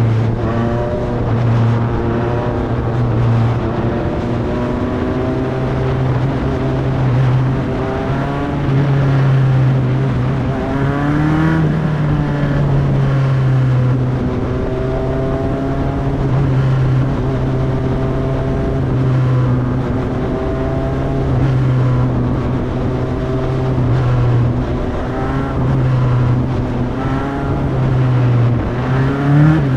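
Formula Enterprises single-seater race car engine, heard from engine-bay microphones, running at a steady part-throttle pace-lap speed, its note holding nearly level with small rises and falls. About a third of the way in and again near the end the revs dip briefly and climb back as the throttle is lifted and reapplied.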